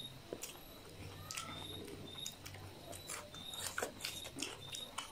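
Close-miked eating sounds: chewing with many short, scattered wet mouth clicks and smacks as food is eaten by hand, over a faint steady low hum.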